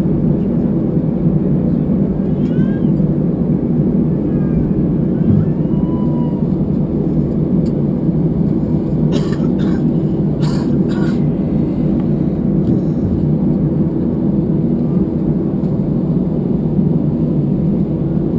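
Steady hum and rumble inside the cabin of an Airbus A319 airliner taxiing, its engines and air system running evenly. A few short knocks come about halfway through.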